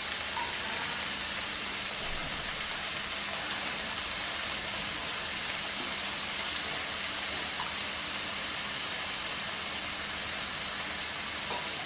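Steady sizzling of vegetables and freshly added soaked basmati rice frying in oil in a nonstick pan.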